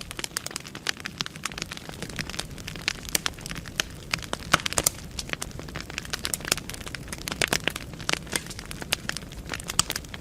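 Wood fire burning in a fireplace: the logs crackle with irregular sharp pops over a low steady rumble of the flames, the strongest pops about halfway through.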